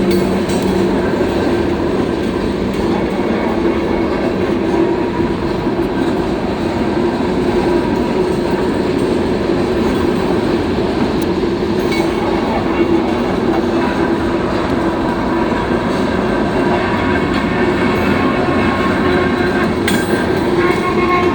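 A New York & Atlantic Railway freight train rolling steadily past, with continuous rumbling wheel-and-rail noise and a steady low diesel hum.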